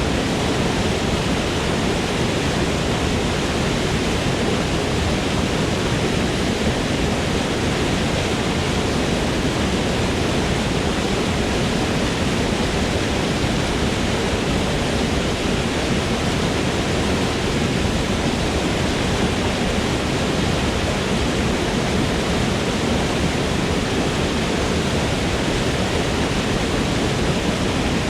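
Waterfall: the steady rush of falling water, unbroken and even throughout.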